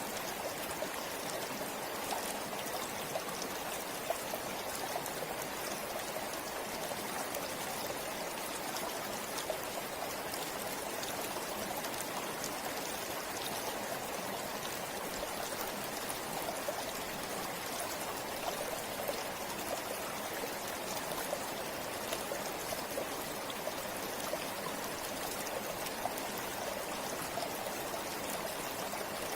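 River water flowing steadily over stones, a continuous rushing with fine splashes and trickles.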